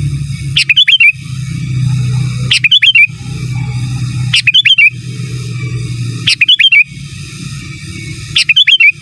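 Sooty-headed bulbul singing: five loud, short phrases of quick rising and falling whistled notes, one about every two seconds. A steady low rumble runs underneath between the phrases.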